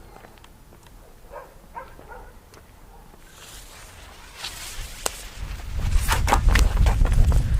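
Fuse of a Trueno Champion n°4 firecracker starting to hiss a little past three seconds in, after it is lit. About five and a half seconds in, a loud deep rumble with sharp crackles starts and runs on.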